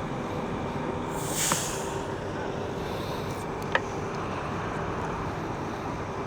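Steady vehicle engine and traffic noise, with a short hiss about a second and a half in and a single sharp click near the four-second mark.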